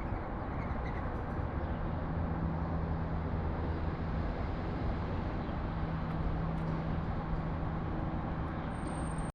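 Steady urban road traffic noise with the low drone of a passing vehicle engine, and a few faint bird chirps.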